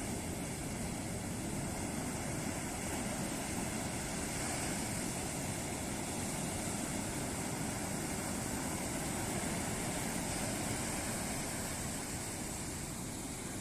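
Ocean surf breaking on a beach: a steady wash of waves that swells a little through the middle and eases toward the end.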